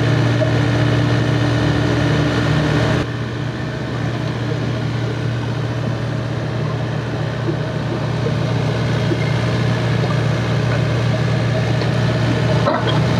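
Diesel engine running steadily with a low hum. About three seconds in, the sound changes abruptly and drops a little in level.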